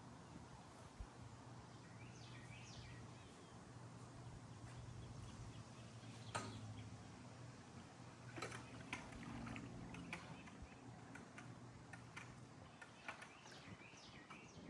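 Faint outdoor ambience: a steady low hum with short, high bird chirps and a few sharp clicks, the loudest about six and eight and a half seconds in.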